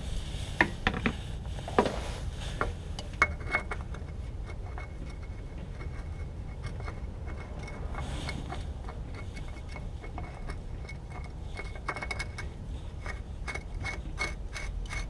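Motorcraft FL-500S oil filter being screwed on by hand: light scraping and scattered clicks, the sharpest in the first few seconds, over a steady low rumble of wind on the microphone.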